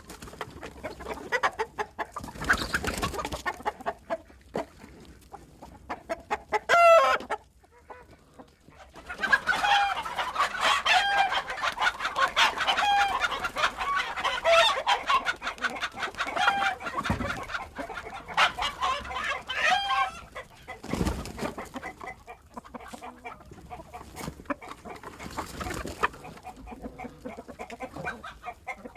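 A flock of chickens clucking and squawking, many short calls overlapping. One loud squawk comes about seven seconds in, and the calls come thickest through the middle stretch before thinning out again.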